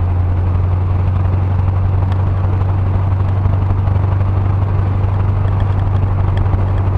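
Steady in-cabin drone of a 1977 Ford Ranchero's 351 Windsor V8 and road noise while driving at an even speed, the engine running on its freshly rebuilt carburetor.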